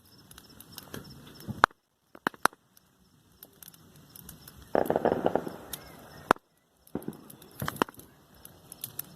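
Burning wood bonfire crackling, with scattered sharp pops and a denser burst of crackling about five seconds in.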